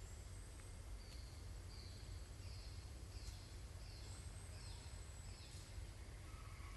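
A bird calling faintly: a series of about seven short, slightly falling high notes, roughly one every 0.7 seconds, over a steady low rumble.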